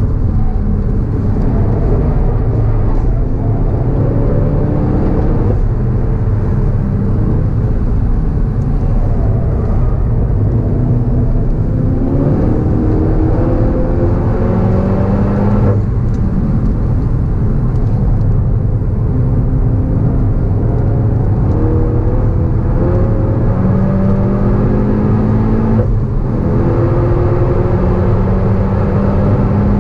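Volkswagen Golf GTI Clubsport S's turbocharged four-cylinder engine under hard acceleration at track speed, its pitch climbing in long pulls and cut sharply about halfway through and again near the end. Heavy low wind and road rumble run underneath.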